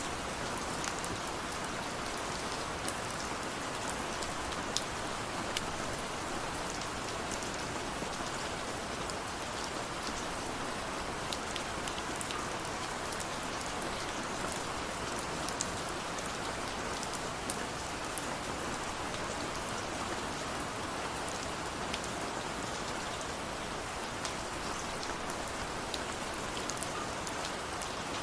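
Steady rainfall: an even hiss of rain with many separate drops ticking sharply on a hard surface.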